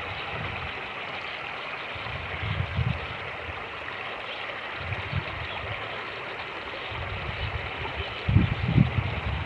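Fast-flowing creek rushing steadily, with gusts of wind rumbling on the microphone now and then, the strongest near the end.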